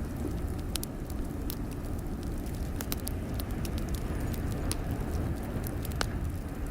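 Wood fire crackling in a fireplace, with frequent sharp pops and snaps scattered irregularly over a steady low rumble.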